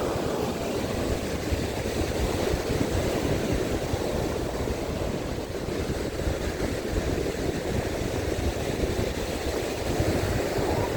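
Sea waves breaking on a beach in strong wind, a steady rushing noise, with wind rumbling on the microphone.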